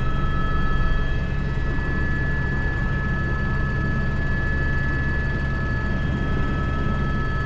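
Cockpit noise of an Airbus H125 (AS350 B3) single-turboshaft helicopter running steadily: a low rotor and engine drone with a constant high turbine and gearbox whine over it.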